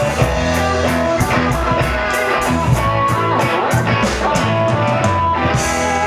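Live band playing an instrumental passage: guitar chords and bass over a drum kit, with cymbal strokes about four times a second. The cymbal pattern stops near the end while the chords ring on.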